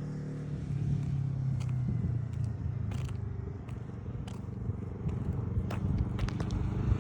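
Yamaha R3 motorcycle engine running at low revs: a steady idle hum at first, then an uneven low rumble, with a few faint clicks.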